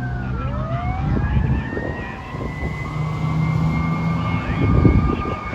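Fire truck sirens wailing, two or more rising and falling out of step with each other, over the low rumble of the trucks' engines, which swells loudest near the end.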